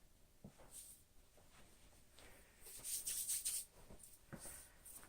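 Faint rustling and handling noises, with a denser patch of rustling about three seconds in.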